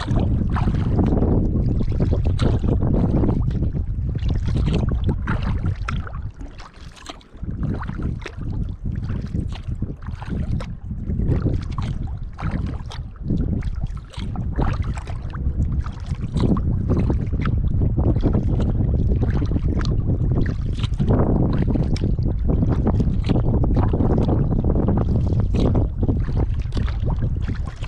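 Wind buffeting the microphone as a low rumble, with kayak paddle strokes splashing in the water at an uneven pace of about one or two a second. The wind drops off briefly near a quarter of the way in.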